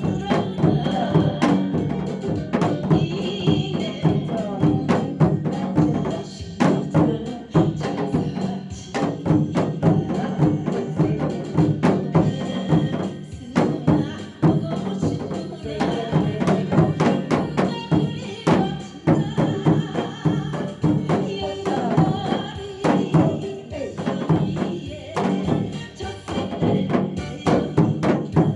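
Janggu, the Korean hourglass drum, struck in quick rhythmic strokes along with a recorded trot song backing track.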